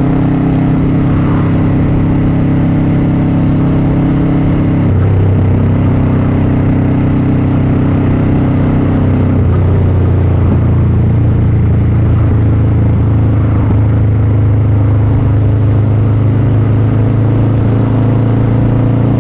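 Motorcycle engine running while riding, a steady loud note that shifts pitch in steps about five and about ten seconds in.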